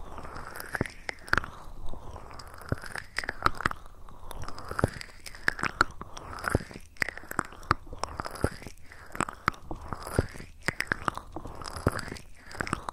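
Close-miked ASMR mouth sounds: irregular wet clicks and smacks, several a second, over soft breathy sweeps that rise and fall.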